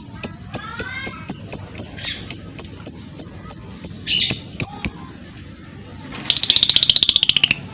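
Lovebirds calling: a run of sharp, high chirps repeated about three times a second for some five seconds, with a few sliding calls mixed in. Near the end comes a rapid chattering trill lasting about a second and a half, the long rattle lovebird keepers call ngekek.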